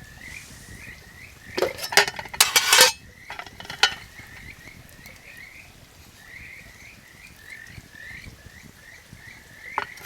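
Frogs calling, a steady series of short chirps about two a second, with a cluster of sharp clicks and clatters about two seconds in and another brief one near the end.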